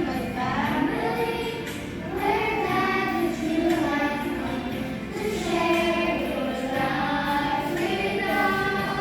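A group of voices singing together in sustained, gliding phrases, with music behind them.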